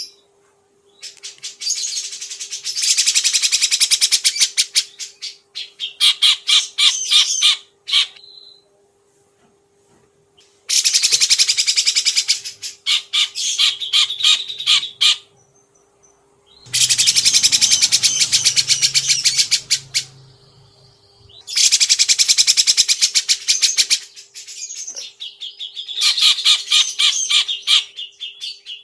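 A songbird singing loudly in repeated bursts of a few seconds each: fast, harsh trains of rapidly repeated high notes with short pauses between the bursts.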